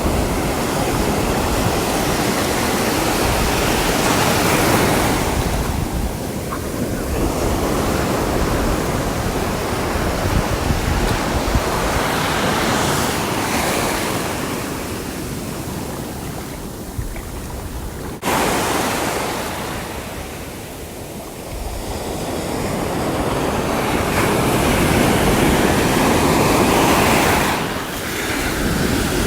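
Sea waves surging and washing in, rising and falling in long swells about every seven or eight seconds. There is a sudden step up in level about two-thirds of the way through.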